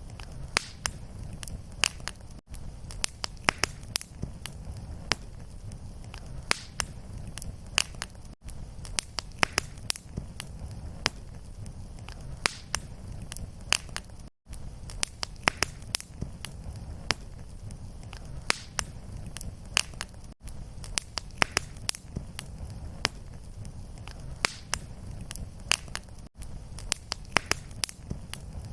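Wood fire crackling, with a steady low rumble of flames and frequent sharp pops and snaps. Brief dropouts about every six seconds mark the seams of a looped fire recording.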